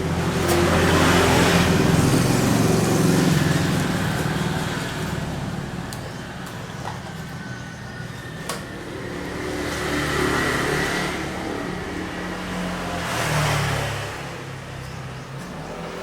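Road traffic: a steady low engine hum with vehicles passing, the rushing noise swelling loudest near the start and twice more later.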